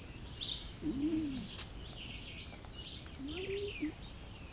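Birds chirping and twittering throughout, with two short rising-and-falling calls, one about a second in and one near the end.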